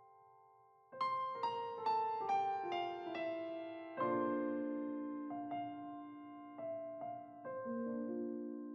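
Background piano music: a quick falling run of struck notes, then slower chords, each left to ring and fade.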